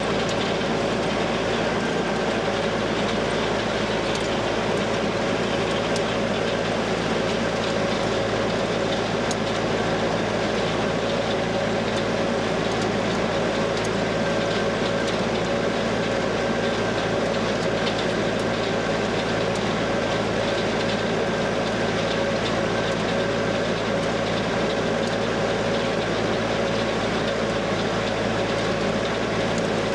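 Diesel silage machinery running steadily under load, an even engine drone with a steady whine over it.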